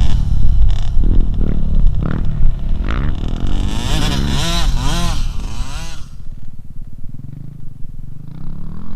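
Dirt bike engine revving as it is ridden, its pitch rising and falling several times in quick succession a few seconds in, then running more quietly near the end.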